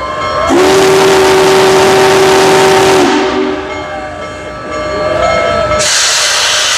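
Union Pacific Big Boy steam locomotive blowing its steam whistle in one steady blast of about two and a half seconds, as it readies to depart. Near the end comes a burst of steam hissing.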